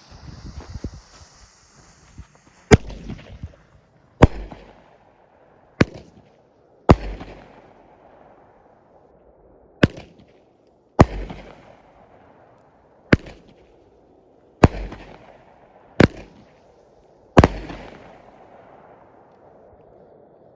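Havoc 9-shot consumer fireworks cake firing: a hiss for the first two seconds or so, then about ten sharp bangs one to three seconds apart, each with an echoing tail. It ends in a double-break finale.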